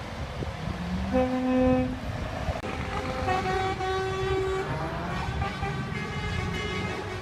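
A vehicle horn honks for nearly a second, about a second in. Several more steady and rising tones follow in the middle, over the low rumble of vehicles.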